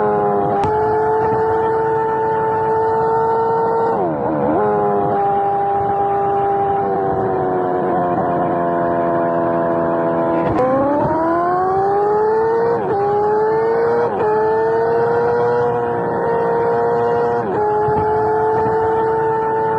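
Kawasaki ZX-4R inline-four engine running at high revs. Its pitch dips briefly and comes straight back up several times, sags slowly for a couple of seconds near the middle, then climbs again.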